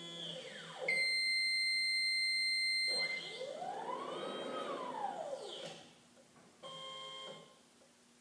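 Stepper motor driving a CNC ironworker backgauge along a rack and pinion while it rehomes. A whine falls in pitch at the start, then a loud steady high tone holds for about two seconds. A whine then rises and falls in pitch over about three seconds as the motor speeds up and slows down, and a short steady tone sounds near the end.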